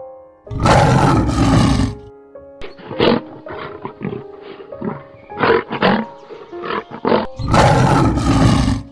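Lion roaring twice, each roar about a second and a half long, with shorter, softer calls between them, over soft piano music.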